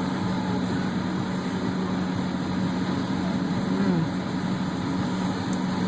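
Steady hum and rushing noise of an idling car, heard from inside its cabin.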